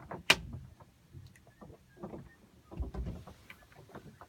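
Knocks and clicks of someone moving about inside a small yacht cabin: one sharp click early on, scattered light knocks, and a low thump about three seconds in.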